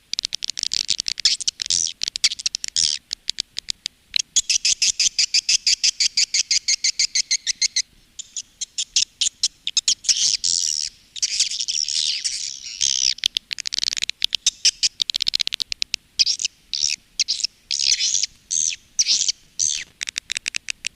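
Swiftlets twittering in a lure recording of the kind played in swiftlet houses: rapid, high, repeated chirps, with a fast, even clicking trill from about four to eight seconds in.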